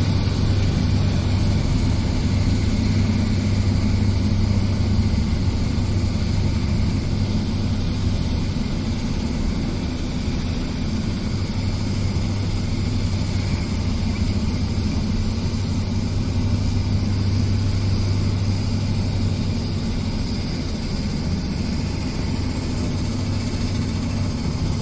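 An engine running steadily with a deep, even hum that does not change in pitch or loudness.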